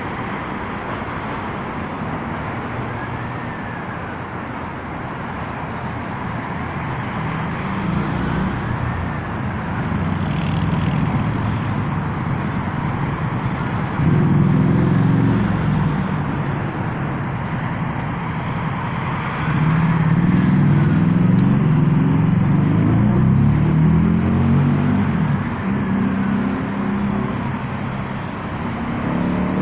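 Busy city road traffic: engines running and vehicles passing, growing louder about halfway through and again later. A distant emergency siren wails slowly up and down every few seconds.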